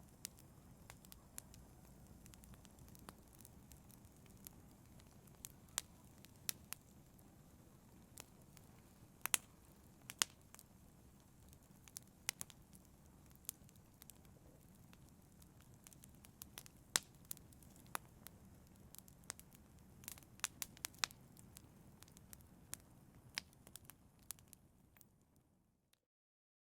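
Fireplace fire crackling, with irregular sharp pops and snaps over a faint steady rush of the flames. It fades out to silence about a second before the end.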